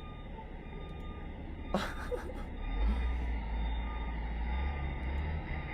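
Low engine rumble of a passing road vehicle that swells about halfway through and eases off near the end, with one short sharp sound about two seconds in.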